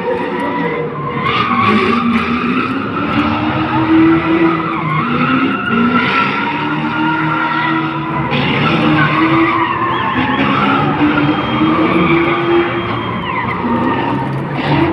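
Car engine revving up and down, with tyres skidding.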